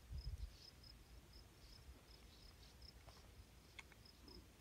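Near silence, with a faint insect chirping in short high pulses, about three a second. A few low bumps sound in the first half-second.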